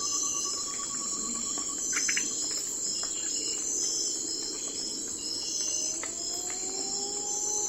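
Night-time forest ambience: a dense, steady chorus of crickets and other insects. A rapid trill sounds in the first two seconds, and a long, slowly rising call comes in near the end.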